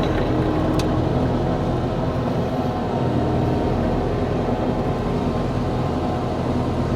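Excavator engine running steadily while the machine works, with an even, unchanging drone.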